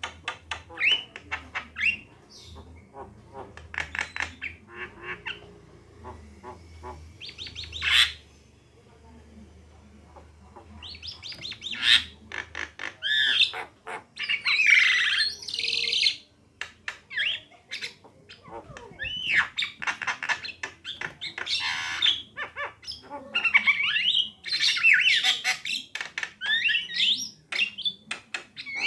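Javan myna chattering with bursts of harsh squawks and short chirps, in clusters with brief pauses, loudest in stretches around the middle and again later.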